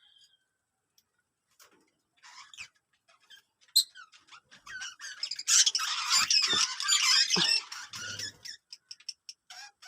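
Birds chattering and squawking in short high calls, building to a dense, loud flurry of overlapping calls in the middle that lasts a couple of seconds, then thinning out again.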